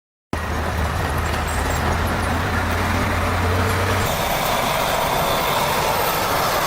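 A heavy vehicle's engine running loudly, cutting in suddenly. A steady low hum under the dense engine noise drops out about four seconds in.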